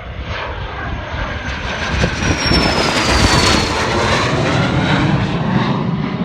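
Private jet's engines at takeoff power during the takeoff roll, growing louder to a peak about three seconds in, with a high whine that falls in pitch as the jet passes. Strong wind buffets the microphone underneath.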